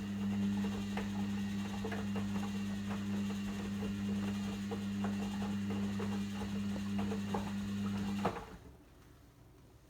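Logik L712WM23 washing machine's drain pump humming steadily, with light rattles and ticks over it. The pump cuts off suddenly with a click about eight seconds in.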